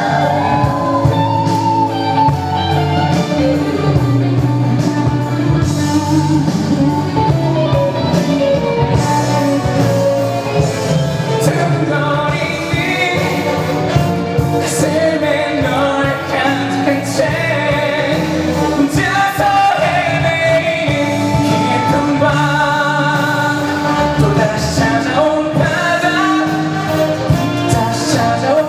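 Live pop ballad: a singer's wavering melody line over a full guitar-led band accompaniment.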